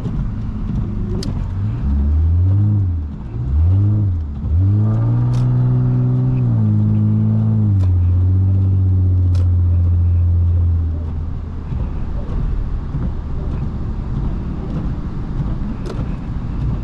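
Lexus IS250's V6 engine revving up and down twice, then held at high revs for several seconds. The pitch steps down once before the engine eases off to a lower, rougher drone, typical of wheelspin on snow with traction control disabled. A few sharp clicks occur along the way.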